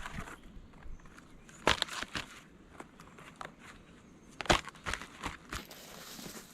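Dry twigs and leaf litter crunching and cracking underfoot, with a handful of sharp cracks, the loudest about two-thirds of the way through, and a short rustle near the end.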